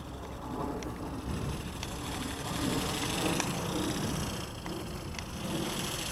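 Wind buffeting the microphone outdoors, with a few faint scattered clicks.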